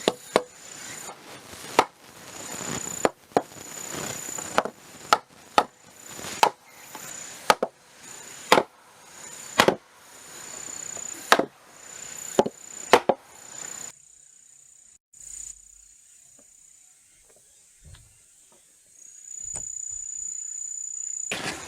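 Hammer blows knocking a small wooden post's angled joint into place in a timber frame: about twenty sharp knocks, one to two a second, for the first fourteen seconds, then only a few faint knocks. Crickets chirp steadily throughout.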